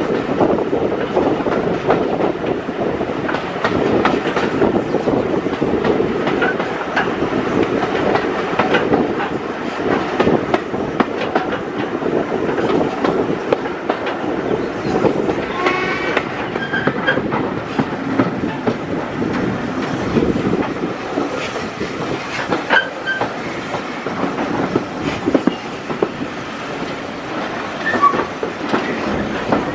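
British Railways Mk1 passenger coach running along the line, heard from on board: a steady rumble with the wheels clicking irregularly over the rail joints, and a brief squeal a little past halfway.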